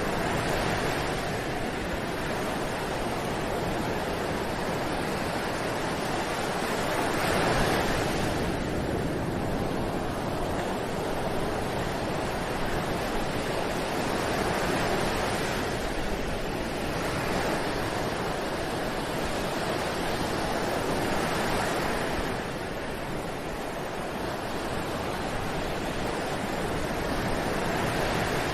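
Ocean waves breaking on a beach in a continuous wash of surf, swelling and easing about every seven or eight seconds.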